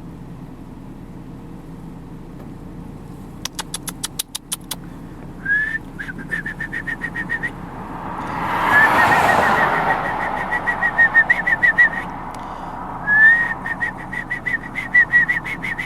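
A person whistling high, warbling trills, three runs each opening with a short upward slur. A passing car swells and fades under the middle run. A quick run of clicks comes shortly before the first whistle.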